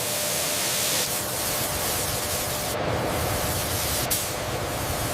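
Steady, loud spray-like hiss of factory machinery, with a faint hum underneath and a single sharp click about four seconds in.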